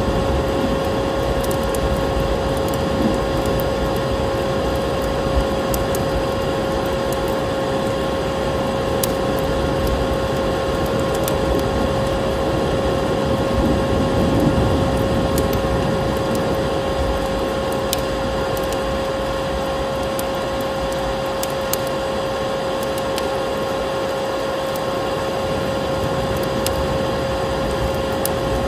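Vacuum cleaner running steadily, a constant motor whine over a rush of air, with a wood fire's crackles and pops scattered here and there.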